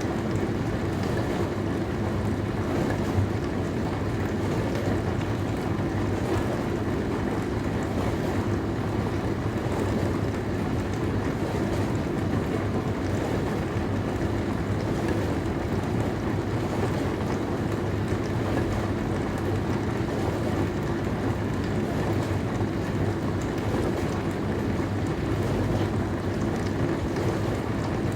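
Dishwasher running through a wash cycle: a steady rush of spraying water with a low motor hum underneath.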